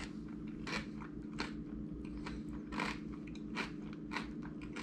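A person chewing a mouthful of tortilla taco filled with shredded beef, beans and corn, about one and a half chews a second, over a steady low hum.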